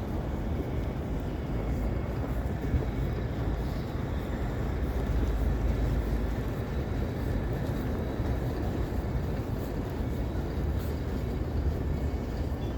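City street ambience in a snowstorm: a steady low rumble of road traffic, with no single event standing out.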